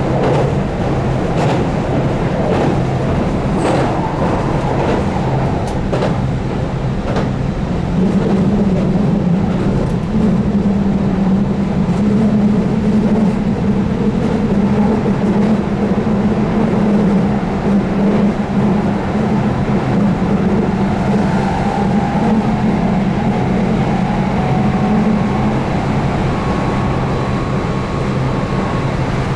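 Keihan 8000-series electric train running at speed: its DC traction motors give a steady low hum that grows stronger about eight seconds in, over wheel and rail noise, with a few clicks in the first several seconds.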